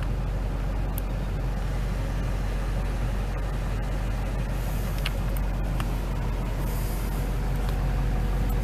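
Duramax 6.6-litre V8 turbo-diesel idling steadily, a low rumble, with a few faint clicks.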